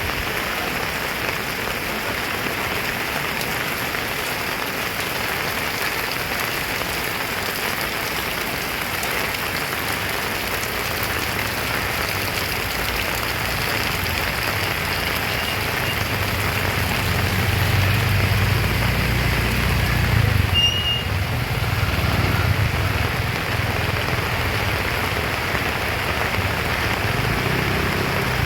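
Heavy rain pouring steadily, a dense even hiss of water on the ground and surfaces. Partway through a low rumble builds under it, loudest about two-thirds of the way in, then eases off.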